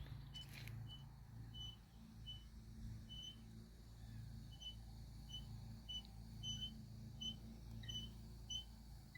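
Faint, short high-pitched chirps at one steady pitch, repeating unevenly about one to two times a second, over a low steady hum.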